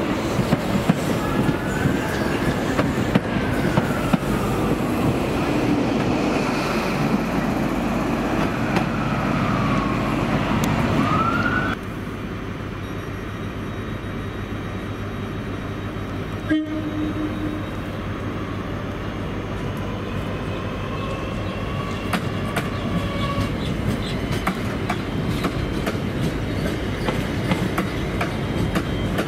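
Coaches of an LNER intercity train rolling along a platform, the wheels squealing in rising and falling glides over a steady rumble. The sound then cuts to a quieter scene: a Class 365 electric multiple unit running slowly along the platform, with one sharp click part-way through and the running growing louder near the end as the train passes.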